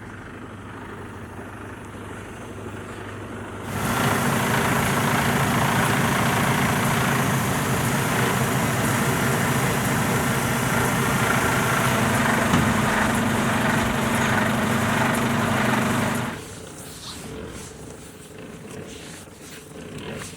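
Truck engine running with a steady low hum. About four seconds in, it suddenly becomes much louder, with a rushing noise over the engine, and it drops back just as suddenly after about twelve seconds.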